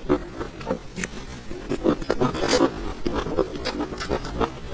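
Close-miked chewing and lip-smacking of soft creamy cake: a quick, irregular run of wet mouth clicks and smacks.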